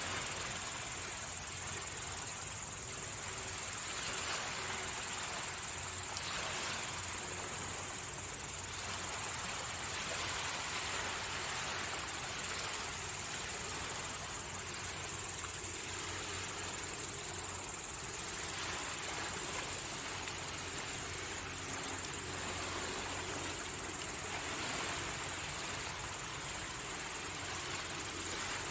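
Sea waves washing onto the shore in slow swells every few seconds, with a steady high-pitched insect trill running over them.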